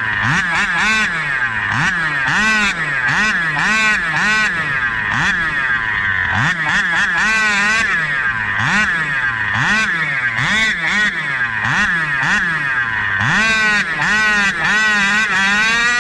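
SCZ E290 29cc reed-valve two-stroke engine revved in quick throttle blips, the pitch jumping up and sagging back roughly every three-quarters of a second, with one short pause about six seconds in. Near the end one longer rev climbs higher and holds.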